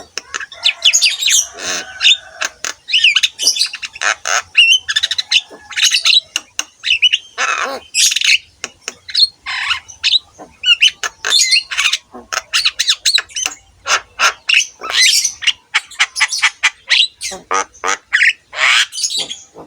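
Javan myna singing in full song: a rapid, unbroken run of harsh squawks, chatter and whistled notes.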